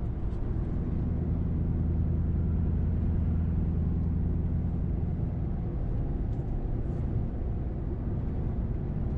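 A 2005 Mercury Grand Marquis's 4.6-litre V8 driving through a muffler-deleted exhaust (catalytic converters and an H-pipe only), droning steadily at an even engine speed.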